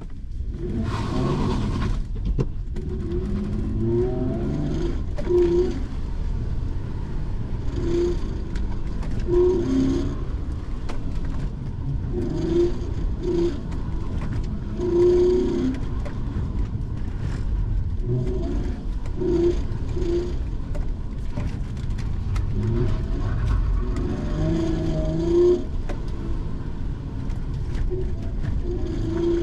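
Hyundai Genesis Coupe's 3.8-litre V6 driven hard through an autocross course, heard from inside the car: the engine comes up sharply about a second in, then revs up and falls back over and over with each burst of throttle and lift.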